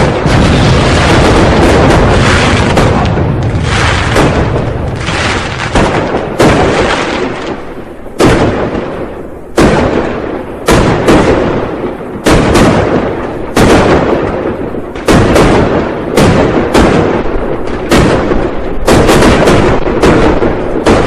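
New Year firecrackers and fireworks going off in a continuous barrage. Bangs run together at first, then come as separate loud reports with short echoing tails, quickening toward the end.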